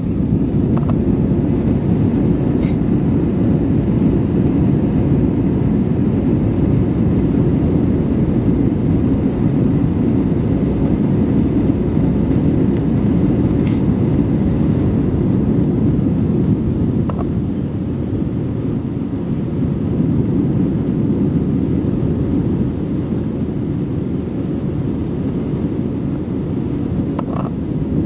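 Airbus A320 in its climb after takeoff, heard as a steady, deep rush of engine and airflow noise with a faint steady hum. The level eases slightly partway through.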